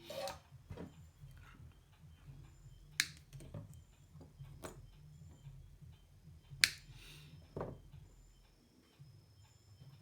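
Sharp clicks and light taps from handling small electronic components and hand tools at a workbench. The two loudest, clear snaps, come about three seconds in and just before seven seconds.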